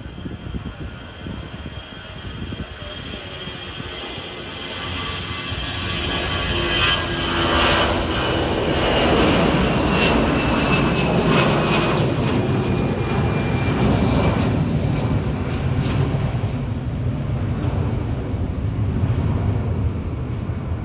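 Airbus A319 twin jet engines at takeoff power, a broad roar with a high whine that swells over the first several seconds. The sound is loudest around the middle as the whine slides down in pitch, then stays loud.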